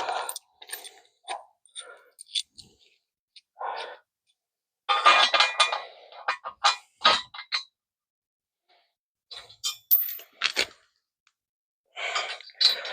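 Metal tools and parts clinking and clattering as they are handled: scattered single clinks, a denser clatter about five seconds in, and another near the end.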